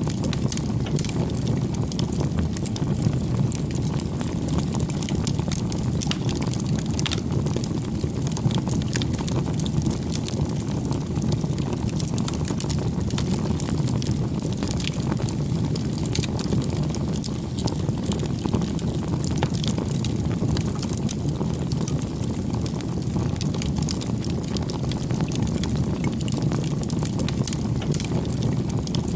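Wood campfire burning: a steady low rush of flame with frequent small crackles and pops from the burning wood.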